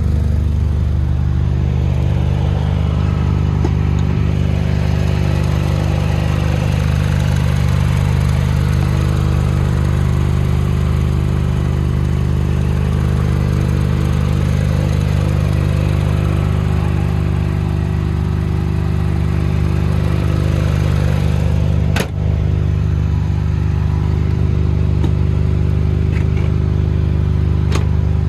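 Supercharged 1.6-litre four-cylinder engine of a 2006 Mini Cooper S JCW idling steadily, with no revving.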